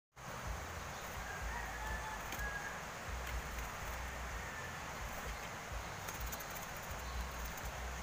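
Faint bird calls over a low, gusting wind rumble on the microphone, with a couple of short calls about a second and a half in and another near the middle.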